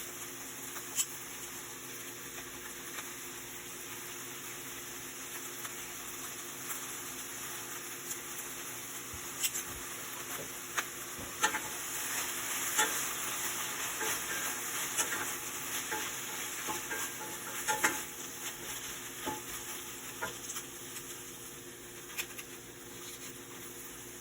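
Food sizzling in a frying pan while a utensil stirs it, with scattered clicks and scrapes against the pan that come most often in the middle.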